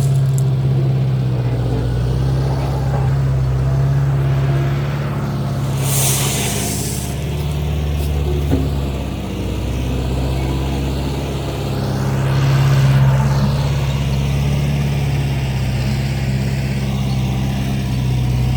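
Engine of earth-moving equipment running steadily, with a brief hiss about six seconds in and the engine note rising and falling again around thirteen seconds in.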